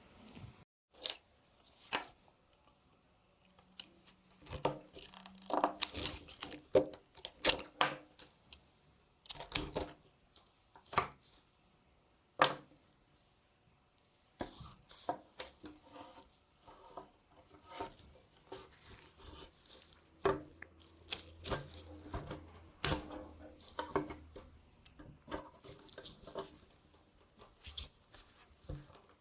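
Irregular clicks, taps and short scrapes of hand work on a rusty knife with metal tools, with a few sharper knocks among them.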